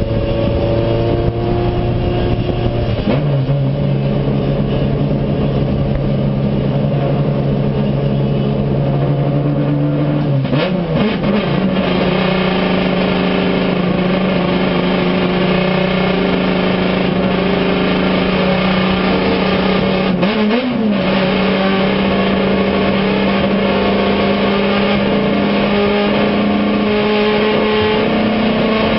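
Acura Integra race car's four-cylinder engine heard from inside the stripped, caged cockpit, running steadily under load. Its pitch steps up about three seconds in and again about ten seconds in, with a brief break around twenty seconds, then climbs slowly near the end.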